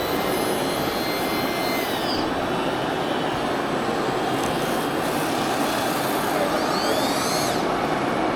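Small electric motors and gear drives of 1/14 scale 3D-printed RC construction models running under a steady noisy rush, with thin motor whines that rise and fall in pitch near the start and again near the end.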